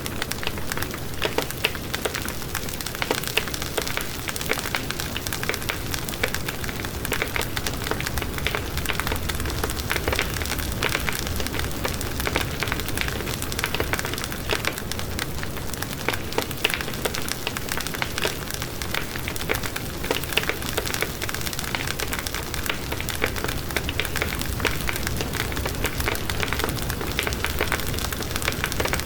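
Wood fire burning in a fireplace, crackling continuously with dense small pops and snaps over a low rumble of the flames.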